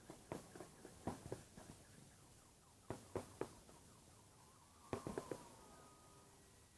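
Fireworks salute going off at a distance: clusters of faint sharp bangs, a few in quick succession, with a faint wavering wail about five seconds in.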